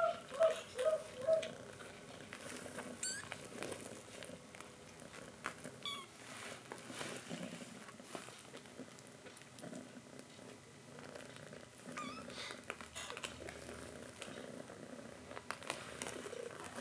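Cat sounds: four short, quick mews or chirps in the first second and a half, then a low, steady purring with small scattered clicks.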